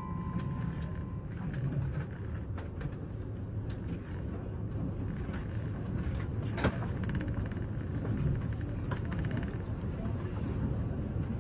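Steady low rumble inside a KiHa 85 series diesel railcar as the train runs, with scattered faint clicks and one sharp click about six and a half seconds in. The last note of the Wide View onboard chime dies away in the first second.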